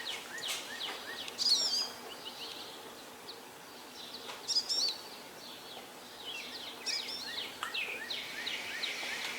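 Songbirds chirping and singing: short phrases of quick, high, up-and-down notes, loudest about a second and a half and four and a half seconds in, over a faint steady outdoor hiss.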